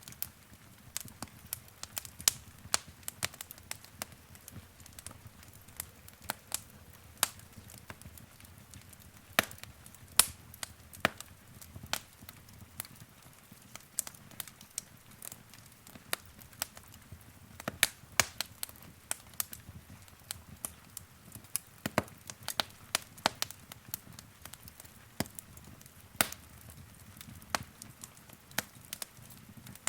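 Wood fire in a fireplace crackling: irregular sharp pops and snaps, several a second at times, over a low steady rumble of the flames.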